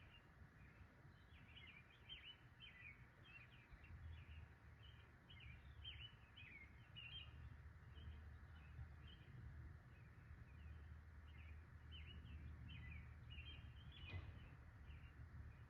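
Faint bird chirps: many short calls repeating throughout, over a low steady rumble.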